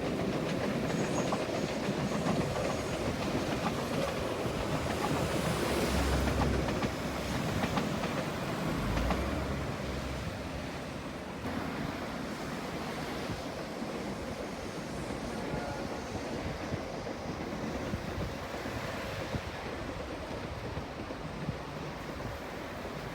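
Fukuoka subway train running on the rails, its wheels clacking over the rail joints with a steady rumble. It is loudest in the first half and settles to a quieter, even running noise about eleven seconds in.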